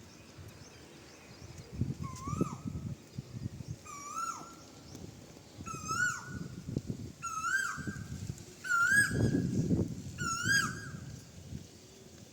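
An animal call, a short rising-then-falling whistled note, repeated about every second and a half, growing louder and slightly higher with each repeat, over a low rustling.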